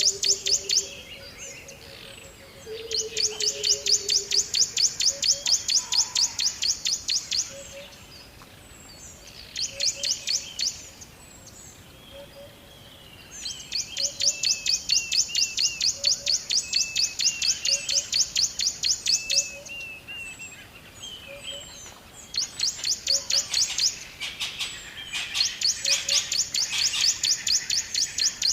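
Birds singing: long, fast trills of high chirps, about ten a second, come in bursts of one to six seconds several times over, with quieter short notes and little chirps in the gaps.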